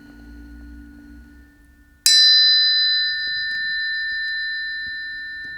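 Planetary tuning forks: a low ringing tone fades away, then another fork is struck sharply about two seconds in and rings with clear high tones, slowly dying away.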